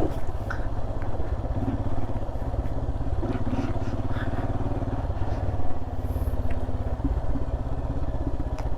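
Royal Enfield Himalayan's 411 cc single-cylinder engine running steadily at low speed, its firing pulses heard throughout.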